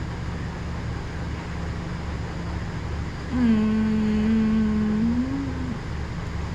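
Motor boat engine running steadily with a low rumble under way. About halfway through, a single long held tone sounds over it for two to three seconds, wavering up and down just before it stops.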